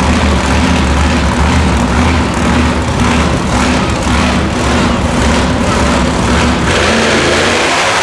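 Heavy engine running steadily with a deep, constant hum. About seven seconds in the low end drops away and higher engine noise takes over, as if the engine is revving.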